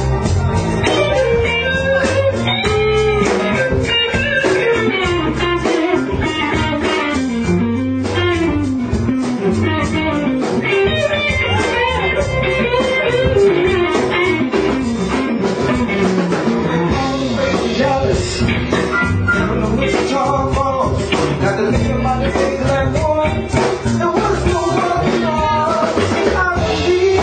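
Blues band playing, with an electric guitar taking bending lead lines over bass guitar and a steady drum beat.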